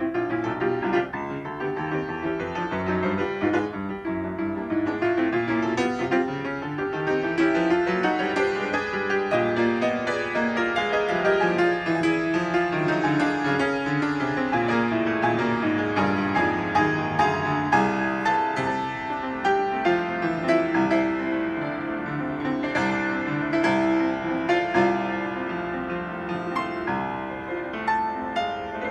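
Piano playing a piece of music.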